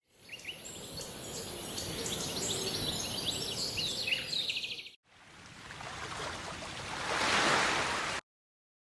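Many birds chirping over a steady high-pitched hiss. After a short break, a rushing noise swells and then cuts off suddenly.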